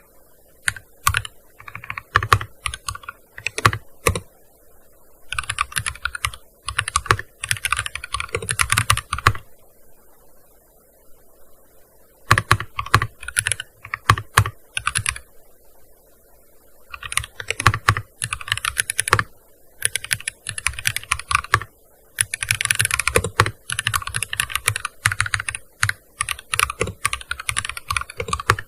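Typing on a gaming keyboard: quick runs of key clicks broken by short pauses, the longest a couple of seconds about ten seconds in.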